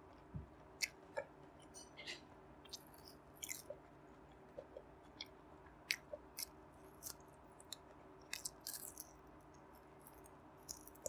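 A person chewing and biting barbecue-sauced pork belly close to a lapel microphone: irregular sharp mouth clicks and smacks.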